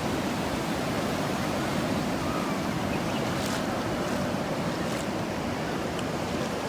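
Ocean surf washing onto the beach, a steady rush of breaking waves.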